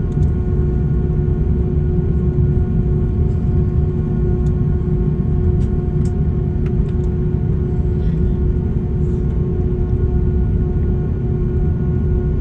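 Airbus A340-600 cabin with the Rolls-Royce Trent 500 engines running: a steady heavy rumble with a steady humming tone over it, and a few faint ticks.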